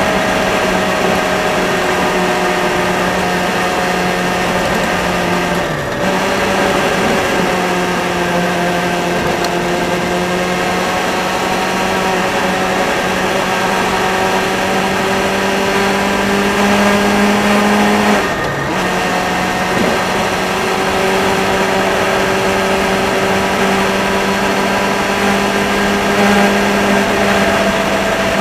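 Motorcycle engine running steadily on the road, its note drifting slowly down and up, over a continuous rush of wind and road noise. About six seconds in and again near eighteen seconds, the engine note briefly dips and falls away before picking up again.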